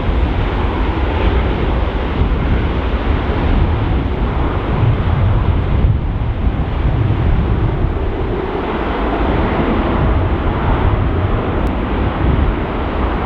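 Boeing 767-300ER jet engines at takeoff power on the departure roll, a steady rumble blended with strong wind buffeting the microphone.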